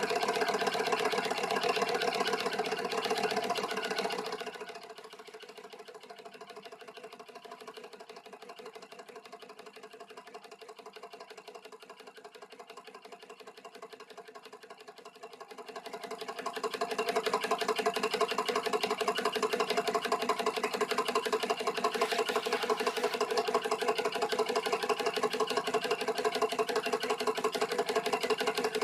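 Homemade beta-type Stirling engine running with a fast, steady mechanical clatter. The clatter drops noticeably quieter a few seconds in and comes back loud after about ten seconds. The engine is running below the speed its builder hoped for.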